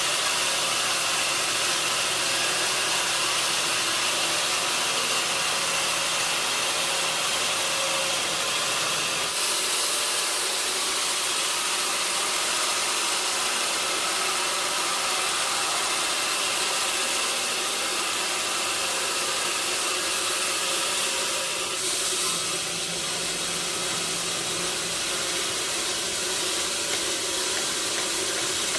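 Sawmill machinery running with a steady hiss-like noise that changes character about nine seconds in and again a little after twenty seconds.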